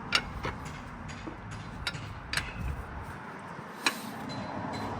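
Sharp metallic clicks of a hand wrench working the lug nuts while a wheel is tightened onto a new brake rotor, about six irregular clicks spread over a few seconds.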